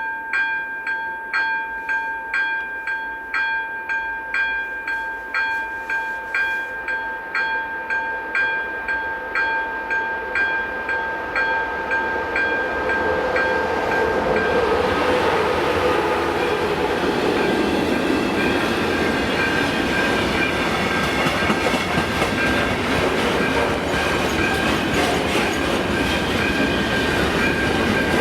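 Level-crossing warning bell ringing at about one and a half to two strokes a second. About halfway in, a train passing over the crossing rises up and drowns it out with loud rolling rail noise and wheel clatter.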